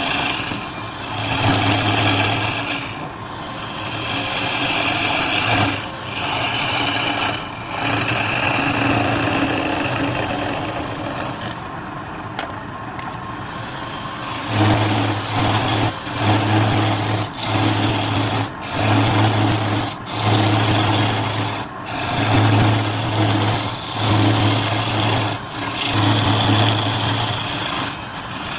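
Wood lathe running with a steady motor hum while a turning tool cuts the spinning wood with a rough, hissing scrape. The sound breaks off briefly and picks up again every second or two in the second half.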